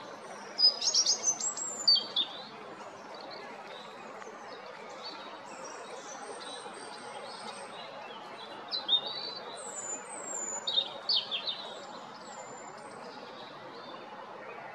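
European robin singing: two loud phrases of high, quickly varied notes and trills, one about a second in and another past the middle, with softer high notes between them, over a steady background hiss.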